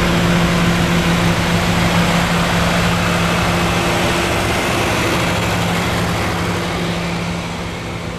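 Tractor engine running close by, a steady drone that fades somewhat over the last few seconds.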